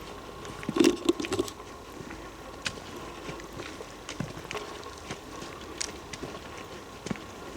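Footsteps on a forest trail with a handheld camera, scattered light clicks and knocks, with a louder cluster of knocks and rubbing about a second in. A faint steady hum runs underneath.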